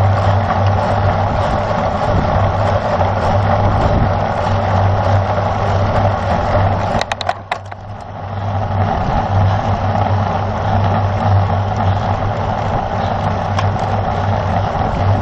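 Wind rushing over a cyclist's camera microphone during a road race, a steady loud rumble. About seven seconds in come a few sharp clicks, and the wind noise drops briefly before returning.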